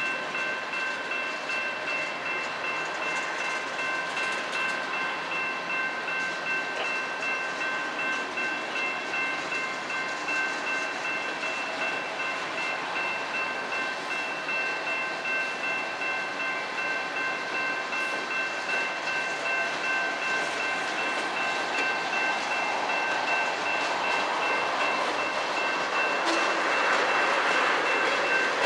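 Freight cars of a manifest train rolling past: a steady rumble with a regular clack of wheels over the rail joints, and steady high-pitched whining tones running through it. It grows a little louder near the end.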